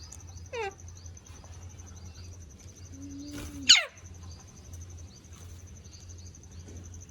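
Ringneck parakeet calls: a short falling call about half a second in, then a loud, sharp call sweeping steeply down in pitch near the middle. A steady high-pitched trill runs behind them.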